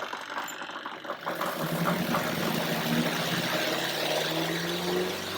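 Spin-dry basket of a Della portable twin-tub washing machine starting its spin cycle with wet clothes. About a second in, its motor whir grows louder and slowly rises in pitch as the basket spins up.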